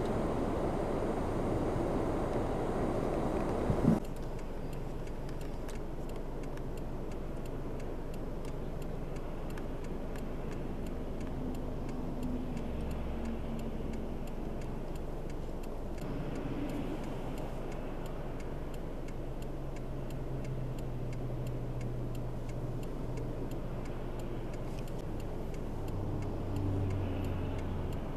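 Roadside traffic and vehicle-engine noise in a snowstorm. A louder rush of wind and traffic stops abruptly with a click about four seconds in. After that comes a steady low engine hum with faint, regular ticking.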